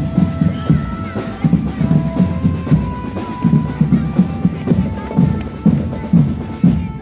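Drum band playing on the march: a steady beat of bass and snare drums with a melody of held notes over it.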